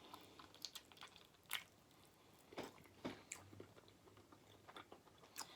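Faint chewing of food close to the microphone, with about half a dozen short clicks and mouth sounds scattered through.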